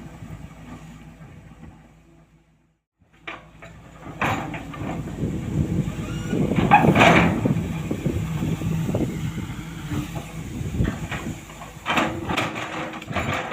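Heavy truck engine running with a steady low hum, overlaid by metal knocks and clatter. The sound fades away about two seconds in and comes back about a second later, with the loudest knock in the middle.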